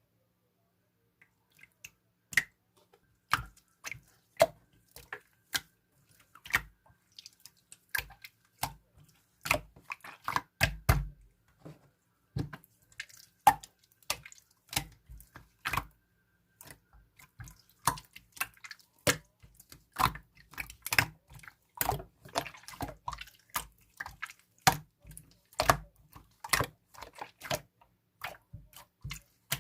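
Clear blue slime being squished and pressed by hand, making irregular clicks and pops about one to two a second, starting about two seconds in.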